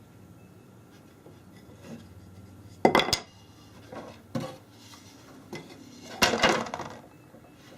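Hard objects clattering against each other: two loud clusters of sharp knocks about three seconds apart, with a few fainter knocks in between.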